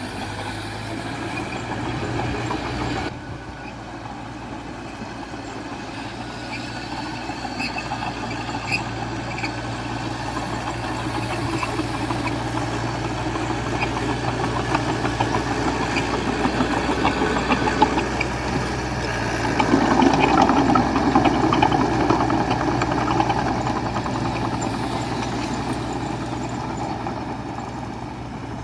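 Diesel engine of a small D20A crawler bulldozer running and working under load. The sound changes abruptly about three seconds in, then grows louder and harder-working about two-thirds of the way through before easing off near the end.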